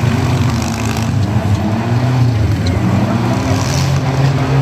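Engines of several small demolition-derby cars running and revving up and down together, loud and continuous, with crowd voices underneath.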